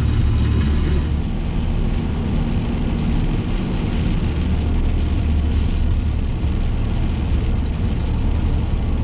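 Steady road noise inside a moving car: a low rumble of engine and tyres, with an even hiss of tyres on a wet road above it.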